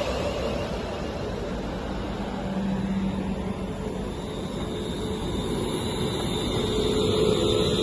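A passing train: a steady rush of wheel and running noise, with a thin high whine coming in about halfway through.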